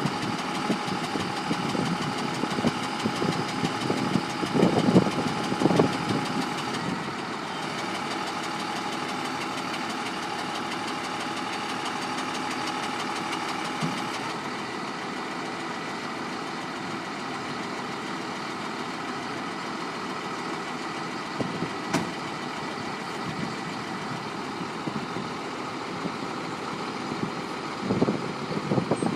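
A 5.9 Cummins inline-six diesel in a 1996 Ford digger truck idling steadily, with a few louder rumbles in the first several seconds and again near the end.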